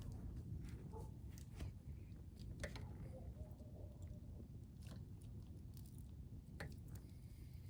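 Wood burning in a campfire pit, crackling with a handful of sharp pops spread through, over a steady low rumble.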